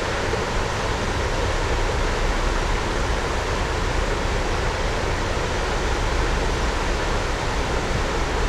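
Steady rushing noise over a constant low rumble, the sound of a moving diesel-hauled train, with wind on the microphone.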